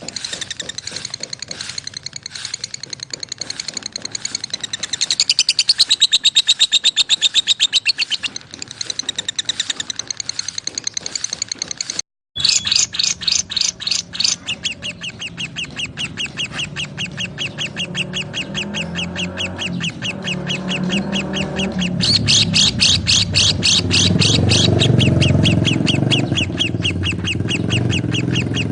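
Lovebirds chattering in rapid, high-pitched chirps, many per second in a fast rhythmic run, with a brief break partway through.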